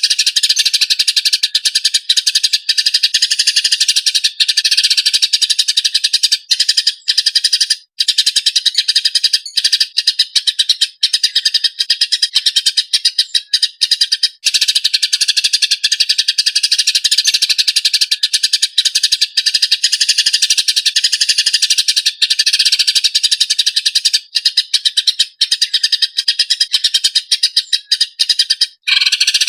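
Small songbird singing a long, nearly unbroken run of fast, high trills and chattering rolls with only a few brief pauses: a masteran tutor recording for cage birds.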